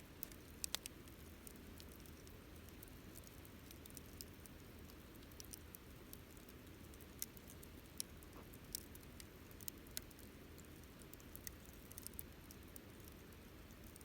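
Wood campfire crackling: scattered sharp pops and snaps at irregular intervals, a quick cluster of louder ones just under a second in, over a low, steady background.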